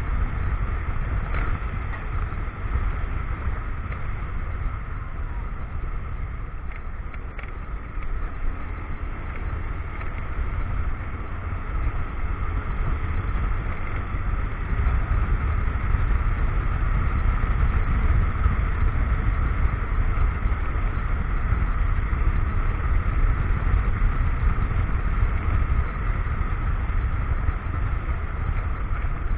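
Motorcycle running steadily along the road, with a heavy, constant wind rumble on the action camera's microphone.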